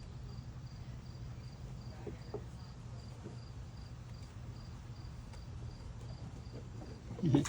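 A cricket chirping in a steady rhythm, about two or three short high chirps a second, over a low steady hum.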